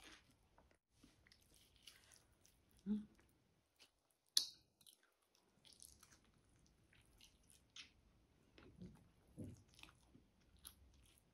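Faint chewing and mouth sounds of a person eating braised chicken adobo, with scattered small wet clicks and one sharp click about four seconds in.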